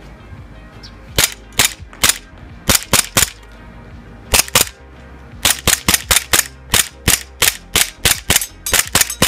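Airsoft gun fired semi-automatic: sharp single shots in small groups, then from about halfway a steady string of about four shots a second.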